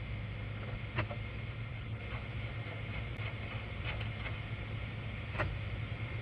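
A few light metallic clicks and taps of tractor loader control linkage parts being handled, over a steady low mechanical hum.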